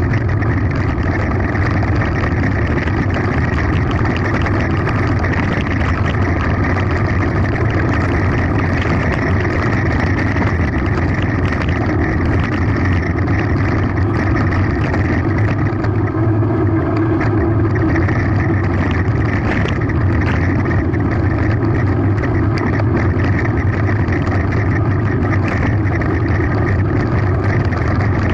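Steady, loud rumbling noise of a mountain bike descending a gravel forest road at speed: tyres rolling over gravel and the bike rattling.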